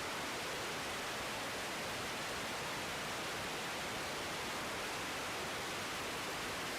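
Steady, even hiss with no engine note, voice or distinct event in it.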